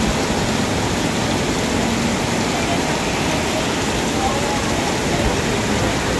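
Heavy downpour: a steady, dense hiss of rain beating on pavement, with water pouring off concrete steps.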